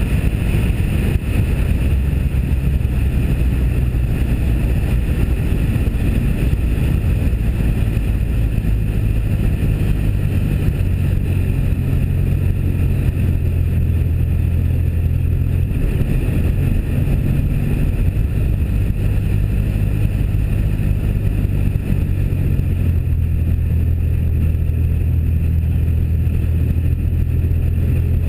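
Engine drone and road noise from a 1997 Pontiac Firebird's 3.8-litre V6 cruising at steady speed, with wind buffeting the GoPro's cotton-covered microphone. The low drone holds steady throughout.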